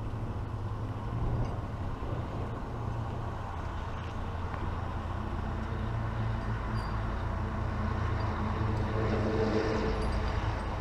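Motor vehicle engine running steadily with road noise, growing a little louder near the end.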